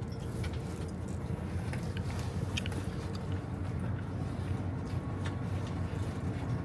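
Steady low rumble of vehicle and traffic noise, with a few faint clicks scattered through it.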